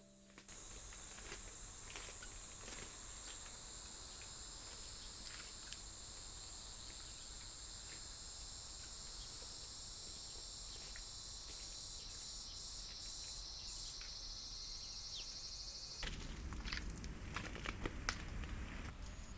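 Steady high-pitched drone of summer insects that cuts off suddenly about three-quarters of the way through. A few scattered knocks and handling noises follow.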